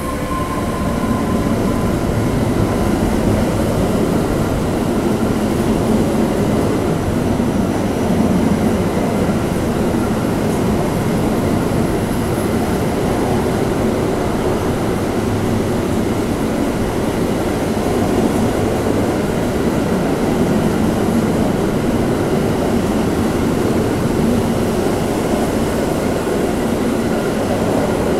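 Freight train of loaded double-deck car-carrier wagons rolling past, a steady rumble of steel wheels on the rails.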